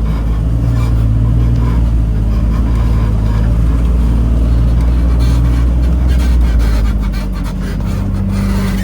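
Off-road vehicle's engine running steadily at low trail speed, heard from the passenger seat, dropping a little about seven seconds in. A run of short scrapes and clicks about five to seven seconds in.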